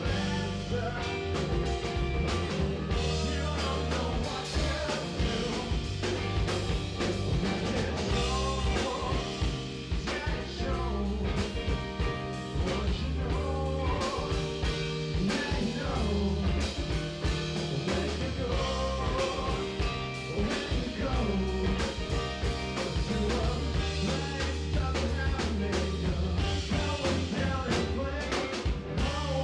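A live band playing a rock-soul song with electric guitar, bass guitar and drum kit, the bass and drums steady under a guitar lead.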